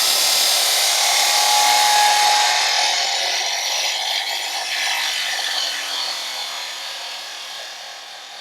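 A power tool cutting through metal exhaust tubing, a steady hissing cut that starts abruptly and slowly gets quieter.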